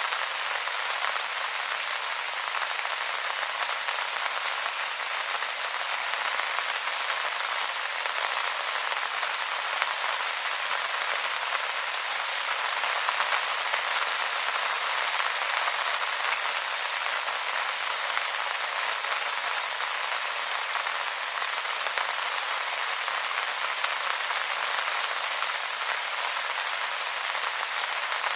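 Steady rain falling on wet leaves, a dense even patter of many small drops.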